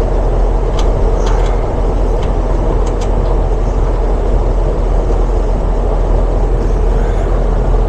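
Steady, loud machine hum with a rushing noise over it, unchanging throughout, with a few faint clicks.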